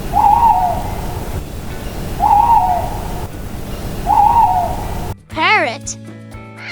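Owl hooting: three short hoots about two seconds apart, over steady background noise.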